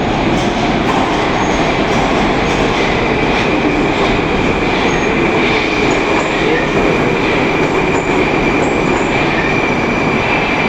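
Moskva-2019 metro train running along the platform, its loud rolling noise steady, with a high steady whine joining about three seconds in.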